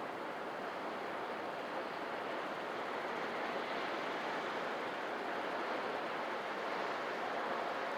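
Sea surf: waves washing and breaking on the shore in a continuous rush of noise that slowly swells and eases.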